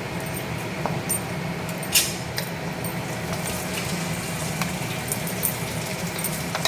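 Light metallic clinks and ticks of kitchen utensils over a steady low hum, with one sharper clink about two seconds in.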